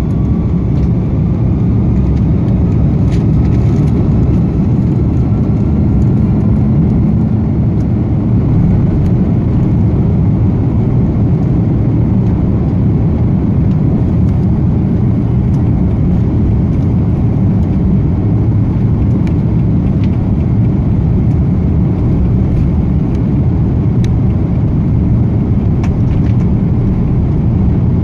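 Airbus A330-300's jet engines running, heard as a steady loud roar inside the cabin, with a faint whine rising in pitch in the first few seconds.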